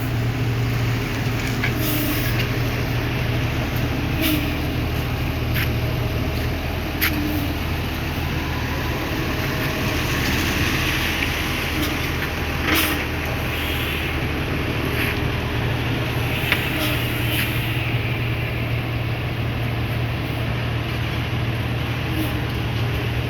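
Heavy truck engine running steadily, with a few short sharp clicks and hisses over it.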